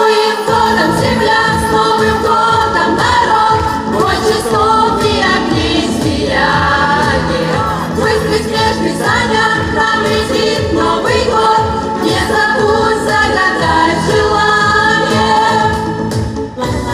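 New Year pop song with a steady beat, with voices singing long held notes over the accompaniment.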